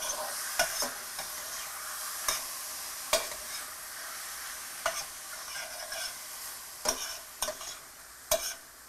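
Turkey sizzling in a stainless steel sauté pan while it is stirred, the utensil knocking against the pan every second or two. The sizzle eases off near the end.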